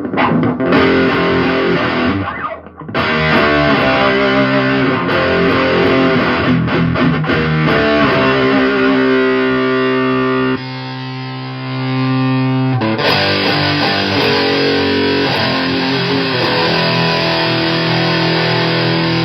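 Electric guitar with heavy fuzz distortion playing sustained riffs and chords through a solid-state amp, a Super Cool Pedals 77 Fuzz Blender pushed by a Fuzzimp Shroot overdrive. The playing breaks off briefly about two seconds in, and the tone turns brighter about thirteen seconds in.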